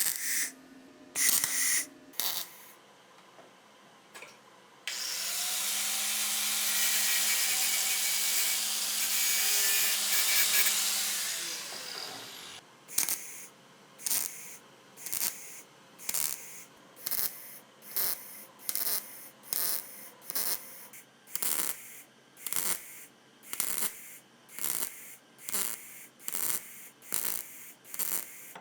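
Hand tool worked back and forth over a part in even strokes, about one to one and a half a second, rubbing like a file or saw. Before that comes a steady hissing run of about seven seconds, and at the start a few short scraping strokes.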